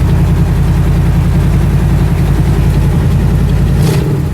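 1966 Ford F100's 352 FE V8 idling steadily just after a cold start, warming up. A brief click sounds near the end.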